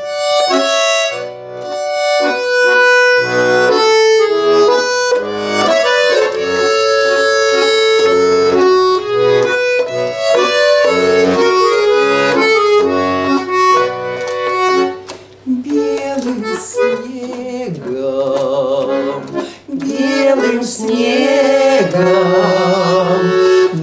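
Accordion playing a Russian folk song introduction, with a singing voice joining in over it about two-thirds of the way through.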